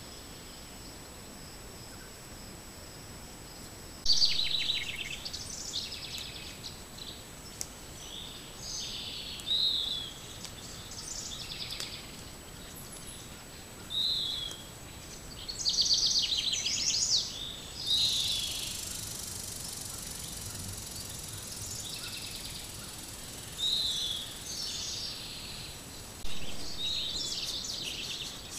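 Songbirds singing and calling in repeated bursts of chirps and trills, over a steady high buzz that stops about four seconds in. A faint high hiss comes in about two-thirds of the way through.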